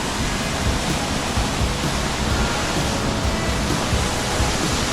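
Close waterfall, Ponytail Falls (Upper Horsetail Falls), rushing in a steady, loud wash of noise.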